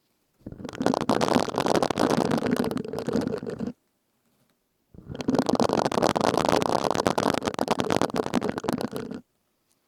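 Silicone scrubbing sponge rubbed and squeezed close to the microphone, giving a dense crackly rustle in two bouts of about three and four seconds with a short pause between.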